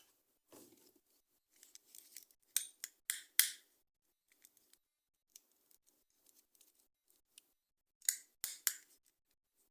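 Toy packaging being cut and handled: a few short, sharp strokes in two groups, three about two and a half seconds in and two near the end, with faint small clicks and rustles between.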